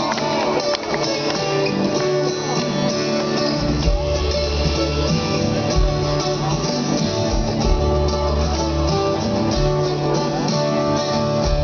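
Live concert music over a PA: guitar playing, with deep bass notes coming in about three and a half seconds in.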